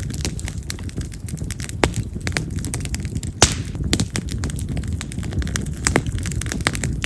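Split wild cherry (yamazakura) firewood burning in a campfire: a low steady rumble of flames under constant crackling, with frequent sharp pops and a few louder snaps like firecrackers. A brief hiss comes about three and a half seconds in.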